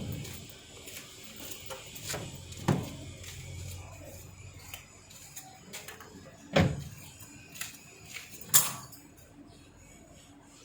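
Scattered sharp knocks and clacks of hard objects being handled, with four louder ones: near the start, about a third of the way in, past the middle and near the end.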